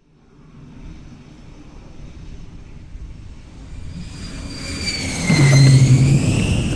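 Jet engine starting up: a turbine whine that builds steadily in loudness, its pitch dipping briefly about five and a half seconds in and then climbing again.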